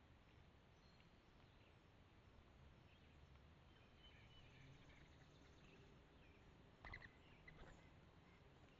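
Near silence: faint outdoor ambience with a few faint chirps and one short sharp sound about seven seconds in.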